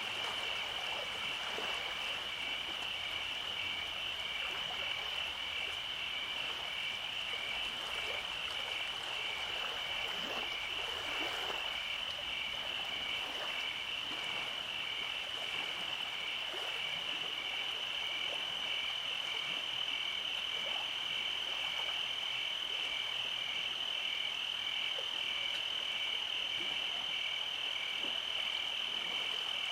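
Summer-night chorus of calling frogs and insects: a steady high trill with an evenly pulsing chirp beneath it, about two pulses a second, and scattered short calls over a soft hiss. Fainter, higher trills join about halfway through.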